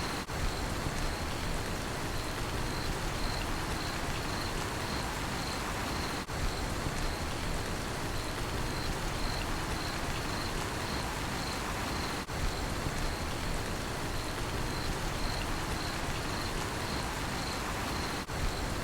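Steady rainfall with a cricket chirping in a steady, pulsing rhythm at a high pitch. The sound dips briefly about every six seconds.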